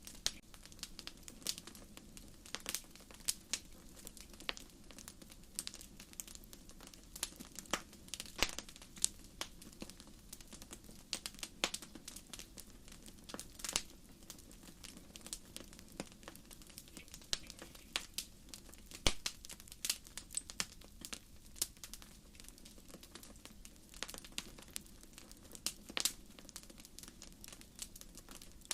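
Wood campfire crackling: irregular sharp pops and snaps of burning firewood, sometimes several a second, over the steady low rumble of the flames. One pop about 19 seconds in is louder than the rest.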